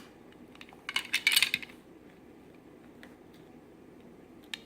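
Small clinks and clatter of a spoon against a dish during feeding: a sharp click at the start, a cluster of clattering about a second in, then a few light ticks.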